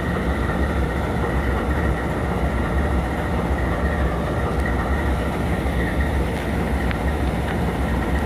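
CSX diesel-electric locomotive's engine idling with a steady low throb.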